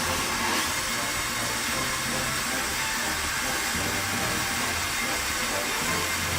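Milling machine running steadily through a long cut, the cutter working along the workpiece while a makeshift power feed turns the table's leadscrew in place of hand cranking: an even hiss over a low motor hum.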